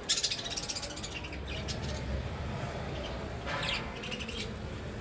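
Small pet birds chirping in quick high bursts, a cluster right at the start and another a little past three seconds in.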